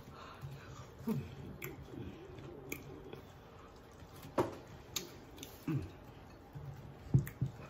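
Close-up eating sounds: chewing on a forkful of steak in onion gravy, with scattered wet smacks and sharp clicks, the loudest about four seconds in and twice near the end.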